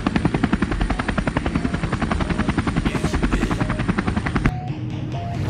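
Helicopter rotor blades chopping in a fast, steady beat, which stops about four and a half seconds in as sustained synth notes of music begin.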